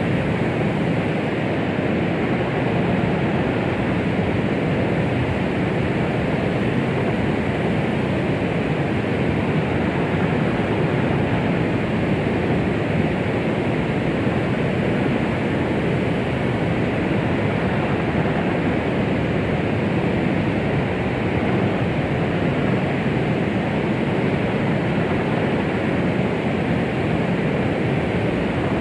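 Steady white-noise track of the womb-sound kind used to soothe babies: an even rushing hiss, strongest in the lows and mids and falling away above about 3 kHz, with no beat and no change.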